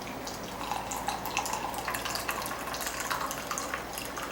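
A cocktail poured from a shaker into a glass: a steady trickle and splash of liquid.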